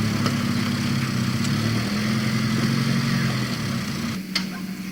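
Tow vehicle's engine running steadily at low revs while backing a trailer in. The engine note drops away about four seconds in, and a single sharp click follows just after.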